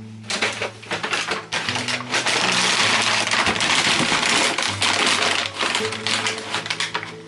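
Soft background music with low sustained notes, over a dense run of clicks and crackling from objects being handled, loudest in the middle and thinning out near the end.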